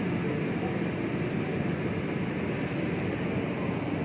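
Heavy rain falling: a steady, even rushing noise.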